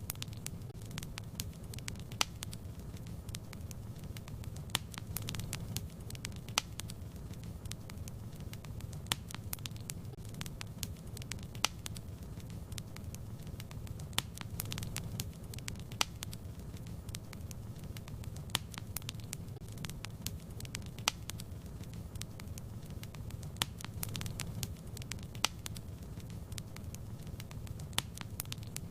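Fireplace fire crackling: a steady low rumble of burning with frequent irregular sharp pops and snaps, a few louder than the rest.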